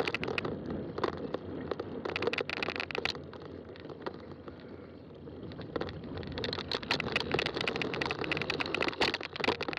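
Fat-tire mountain bike rolling over a rough trail: steady tyre noise with frequent rattles, clicks and knocks from the bike. It eases off in the middle and turns busier again after about six seconds.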